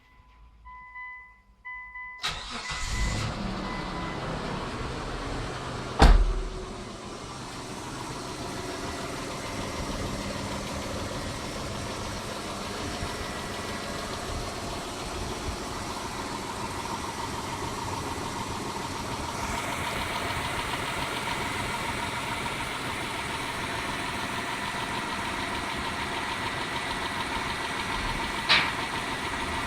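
Mitsubishi Montero Sport's 6G72 V6 being started: two short warning beeps, then the starter cranks and the engine catches about two seconds in and settles to a steady idle. A sharp bang comes about six seconds in and a short click near the end. This is the engine whose hydraulic lifters are suspected of tapping.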